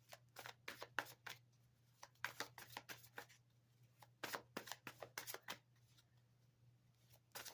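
A deck of tarot cards being shuffled by hand: three short bouts of quick, soft card slaps and flicks, with a faint steady hum under them.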